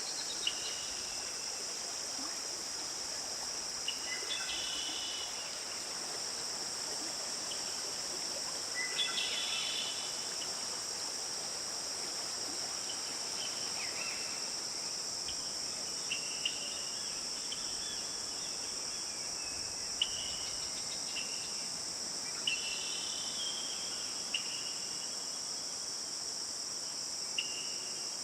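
Forest stream ambience: a steady high-pitched insect chorus over the faint hiss of flowing water. Short bird calls come about every few seconds.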